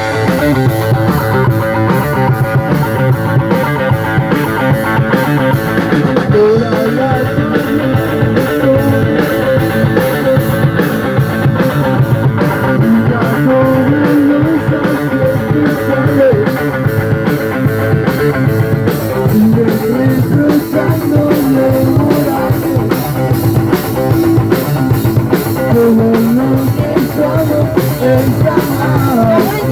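Rock and roll band playing live: electric guitar over a drum kit, with a steady driving beat and a moving lead line.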